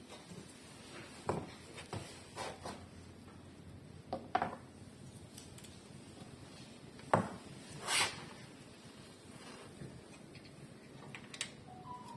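Scattered clicks, clinks and knocks of hand tools and parts being handled, about seven separate sounds with pauses between, and one short scrape about eight seconds in.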